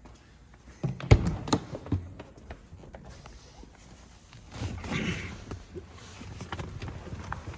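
Scattered knocks and thuds with footsteps. The loudest is a sharp knock about a second in, followed by a brief rustle about five seconds in.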